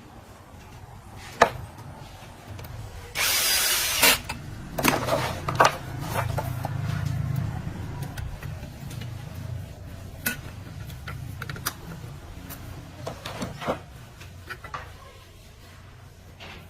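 Workshop repair work: a hand-held power tool, such as a drill, runs in one short burst of about a second, about three seconds in. Scattered knocks and clicks of tools being handled follow, over a low steady hum.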